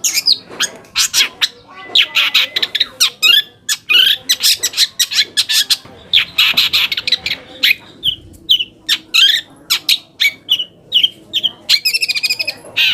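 Long-tailed shrike (cendet) singing a fast, unbroken song of short sharp chirps mixed with harsh, buzzy squawking phrases.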